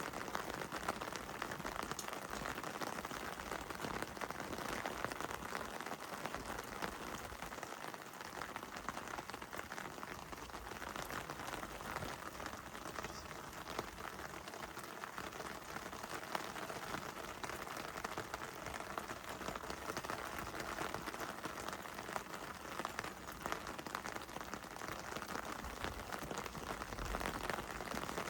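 Heavy rain falling steadily: an even hiss with the small ticks of single drops all through.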